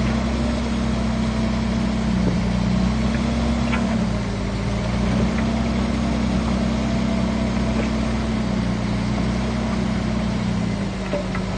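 Heavy diesel engine of a Shantui bulldozer running steadily, its pitch sagging slightly about four seconds in and again near the end as it takes load.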